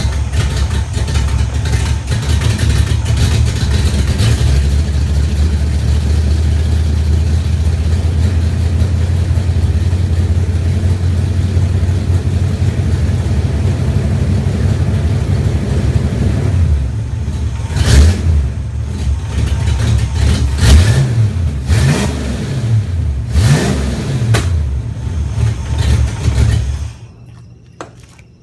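1994 Ford Mustang GT's 5.0-litre V8 idling steadily, then revved in several short blips, then switched off near the end. The owner runs it to show an exhaust leak.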